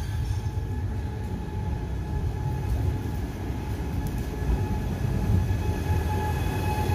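A Trenitalia 'Jazz' electric regional train (Alstom Coradia Meridian) running into the station: a steady low rumble of wheels on the track, with a thin steady whine. It grows a little louder as the train draws up alongside.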